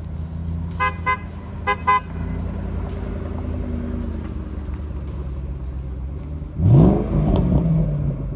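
Supercharged 5.8-litre V8 of a 2013 Ford Mustang Shelby GT500 idling, with the horn tooted in two quick pairs about a second in. About six and a half seconds in the engine is revved once, rising sharply in pitch, then settles back.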